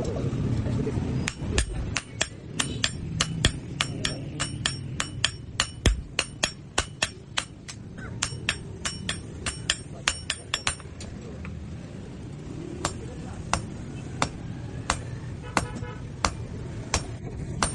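Blacksmith's hand hammer striking steel on an anvil, ringing with each blow, in a quick even rhythm of about three strikes a second. About eleven seconds in, the blows slow to roughly one every second or so.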